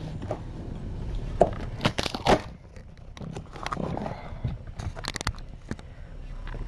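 Handling noises: irregular rustling and crinkling with sharp clicks and knocks, the loudest about two seconds in, over a low steady hum.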